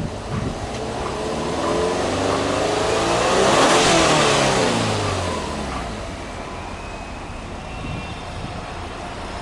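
Subaru Impreza 2.0S-GT's turbocharged flat-four (boxer) engine free-revved once while the car stands still. The exhaust note rises in pitch for about three and a half seconds, peaks, falls back over the next two seconds, then settles to a steady idle.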